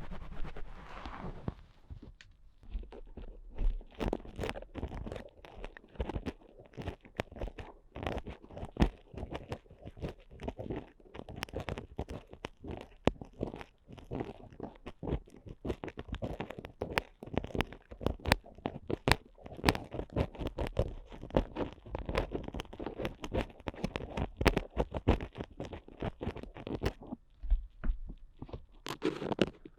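Ear picks scraping and scratching firmly inside an ASMR microphone's ear, heard up close as a dense run of crackly scratches. There is a short pause about two seconds before the end.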